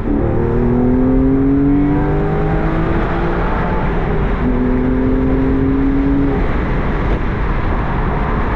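Porsche 996 Carrera 4S 3.6-litre flat-six running on the factory sport exhaust as the car accelerates. Its pitch rises for about three seconds, drops at an upshift, climbs again, then settles at a steadier pitch near the end, over a steady low rumble of road noise.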